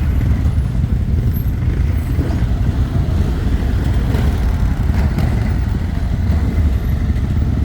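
ATV engine running with a steady, loud low rumble.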